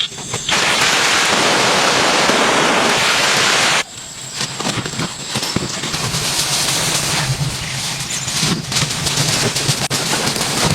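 Heavy rain falling in a steady, dense hiss. A few seconds in it cuts abruptly to lighter rain pattering, with many small ticks.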